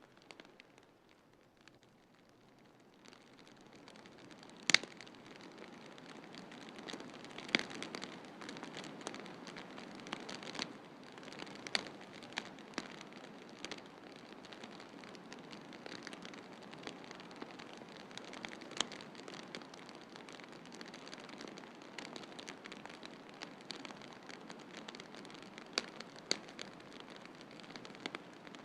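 Wood fire in a fireplace crackling, with scattered sharp pops over a steady hiss that swells in during the first few seconds; the loudest pops come about five and seven and a half seconds in.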